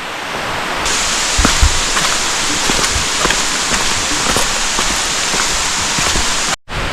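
Steady hiss of falling water, with a few low thumps; the sound gets brighter about a second in and drops out briefly near the end.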